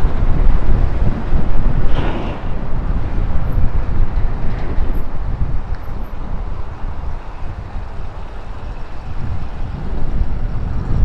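Wind buffeting the microphone while riding a Sur-Ron electric dirt bike: a loud, uneven low rumble that eases somewhat past the middle and picks up again near the end.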